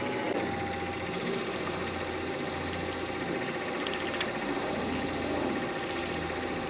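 Midi wood lathe running steadily, its motor giving an even mechanical hum with a faint steady whine.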